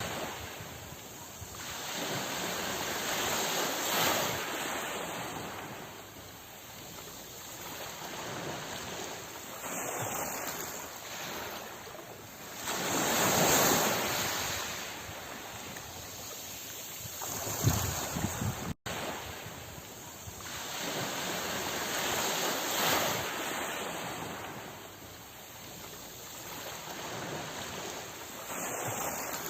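Sea waves washing in over a steady hiss of surf, swelling to a loud break about every nine to ten seconds. There is a momentary cut in the sound about two-thirds through.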